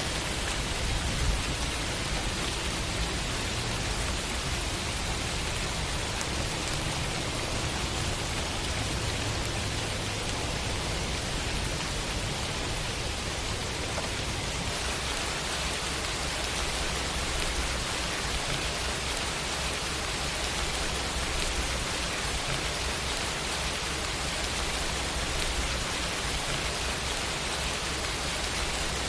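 Steady rain falling, an even hiss with a low rumble under it that shifts slightly about halfway through.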